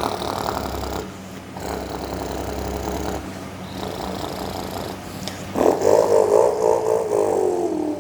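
A person's voice imitating a squatted diesel pickup truck: low buzzy rumbling for cranking it up, then, about five and a half seconds in, a louder wavering revving sound that falls in pitch near the end.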